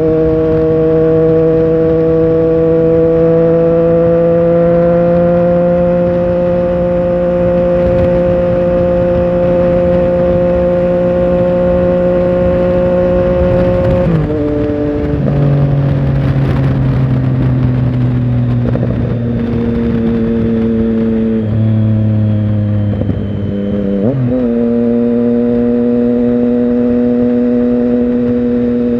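Triumph Tiger Sport 1050's three-cylinder engine heard on board, running steadily at cruise. Its pitch drops in steps around the middle as the revs fall, then jumps back up a few seconds before the end.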